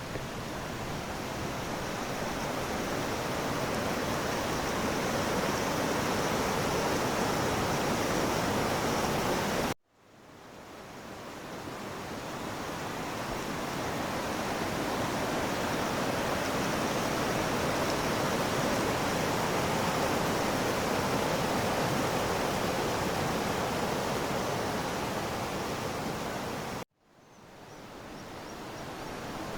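Steady rushing of a fast-flowing river. The sound cuts out abruptly twice, about ten seconds in and near the end, and fades back in each time.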